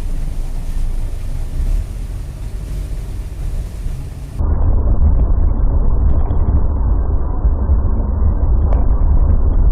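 Steady rumble of a moving car's road and engine noise as picked up by a dash cam. About four and a half seconds in it cuts abruptly to a louder, duller rumble.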